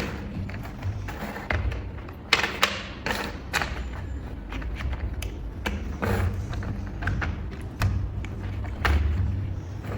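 Plastic building bricks being handled and pressed together: irregular sharp clicks and taps, several close together, over low thuds.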